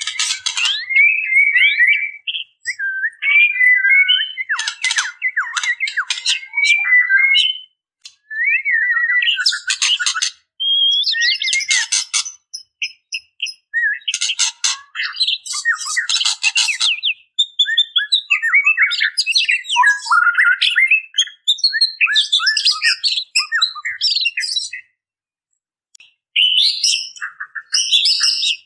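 Female white-rumped shama calling to attract males: rapid rattling 'tretekan' chatter mixed with short slurred whistled notes, in bursts with brief pauses, the calls of a female in breeding condition.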